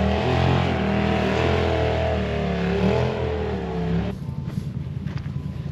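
Off-road vehicle engine revving with a wavering pitch while the rig sits high-centred on an obstacle. The engine cuts off abruptly about four seconds in, giving way to wind noise and a few light ticks.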